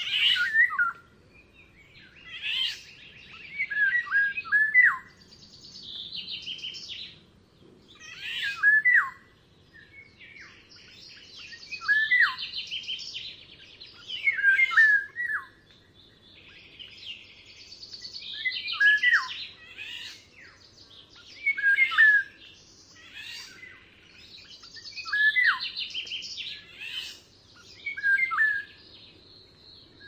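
Songbirds singing in short, chirpy phrases with a buzzy trill. A new phrase starts every two to four seconds over a faint outdoor hiss.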